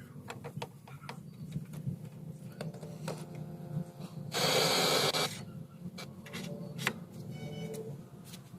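Restored old radio being tuned between stations: crackling clicks and faint whistling tones, with a loud burst of static hiss about four and a half seconds in lasting under a second.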